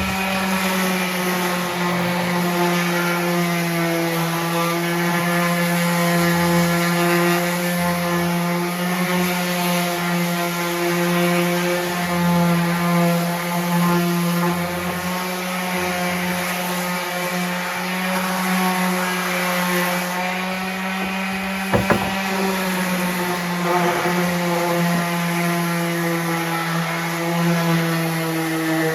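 A machine running steadily with an unchanging pitched hum, and a sharp double click about three quarters of the way through.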